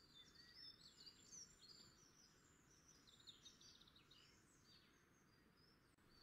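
Near silence, with faint birds chirping in the background: many short, quick calls.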